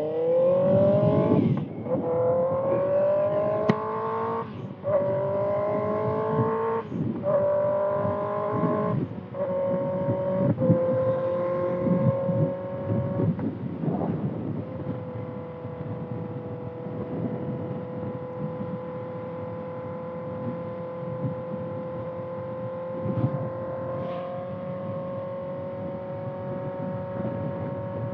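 2025 Kawasaki ZX-6R's 636 cc inline-four through a Voodoo Racing slip-on exhaust, accelerating hard through about five quick upshifts, each a rising pitch cut by a short dip, then holding a steady cruise for the second half. Wind rush runs under it.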